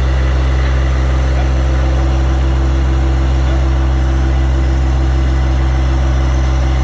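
Tractor engine running at a steady speed: a loud, constant low drone that does not change.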